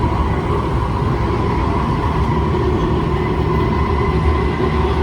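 Kawasaki C151 metro train running at a steady speed. It gives a dense low rumble of wheels on track, with a steady whine from the motors and gears.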